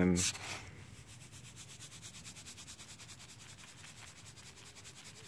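Salt grinder being twisted: a faint, fast, even rasping of clicks.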